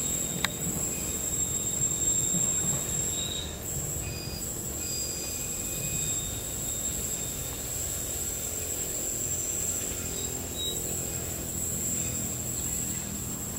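Serayu economy passenger train's coaches rolling away around a tight curve, a steady rumble of wheels on the rails with thin high-pitched wheel squeal coming and going.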